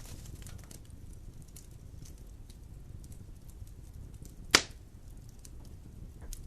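Wood fire in a fireplace crackling: faint scattered ticks over a low, steady rumble of the flames, with one loud, sharp pop about two-thirds of the way in.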